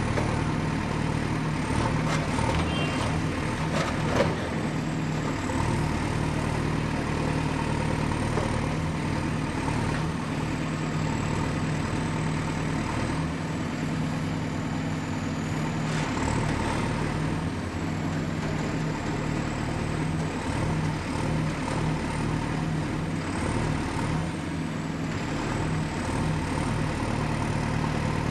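Excavator's diesel engine running steadily as it works, with a single sharp clank about four seconds in.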